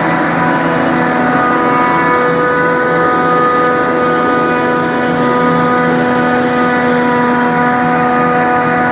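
Claas Jaguar 870 self-propelled forage harvester running: a loud, steady machine sound with several steady tones held over it.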